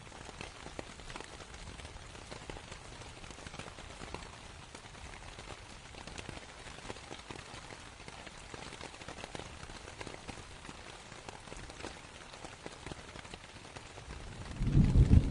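Steady rain falling on canvas, a dense patter of individual drops. Near the end a much louder, deep rumble of thunder sets in.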